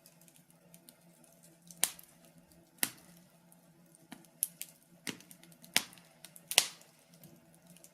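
Wood fire crackling in a fireplace: irregular sharp pops and snaps, about six loud ones among smaller ticks, over a faint steady low hum.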